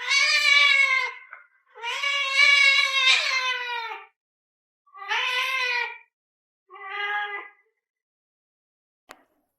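A dog vocalizing back in four drawn-out, whining howls, the second the longest and the last short and softer.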